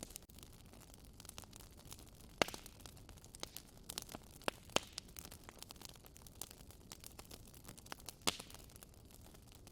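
Wood fire crackling in a fireplace: irregular sharp pops and snaps over a low hiss, the loudest pops about two and a half seconds in and again near the end.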